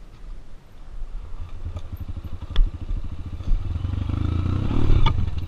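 Single-cylinder four-stroke trail motorcycle engine running on the trail, growing louder from about a second in and loudest near the end, with a couple of sharp knocks and rattles from the bike over rough ground.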